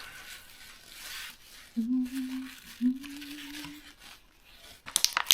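Two short, low humming tones in the middle, then sharp crinkling and crackling from just before the end, like plastic packaging being handled.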